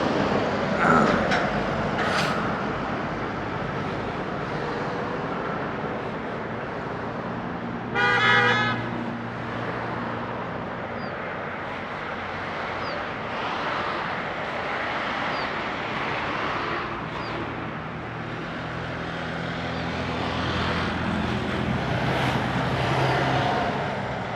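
Road traffic running steadily, with a vehicle horn sounding once, briefly, about eight seconds in.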